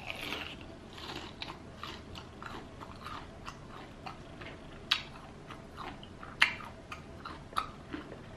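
Close-up eating sounds: biting into and chewing crunchy Popeyes fried chicken, with irregular crisp crackles of the breading and wet mouth clicks, a few louder crunches about five, six and a half and seven and a half seconds in.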